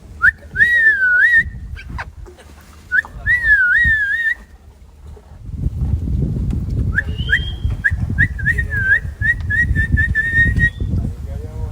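Loud whistling, likely a person whistling to call monkeys: two swooping up-and-down phrases, then a quick run of short whistles. A low rumble joins about halfway through.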